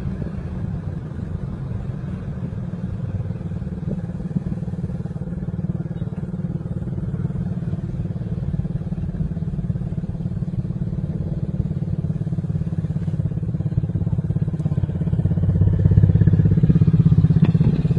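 A motor vehicle's engine running steadily with road noise, a dense low rumble that grows louder about fifteen seconds in.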